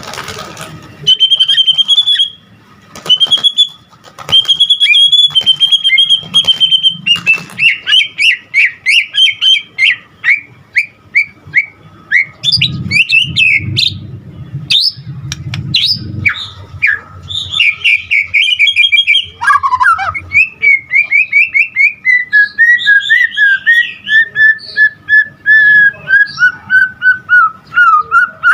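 A white-rumped shama (murai batu) singing loudly and continuously: a long, varied run of clear whistles and fast chattering trills. In the last third it becomes a rapid series of repeated notes that step gradually lower in pitch.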